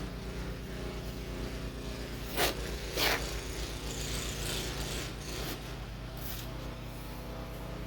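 Steady low hum of a running engine, with two short scrapes about two and a half and three seconds in.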